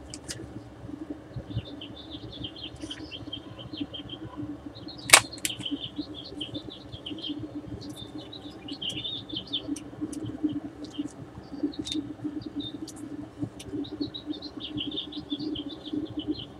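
Small birds chirping in quick twittering runs over a steady low hum, with a sharp click about five seconds in.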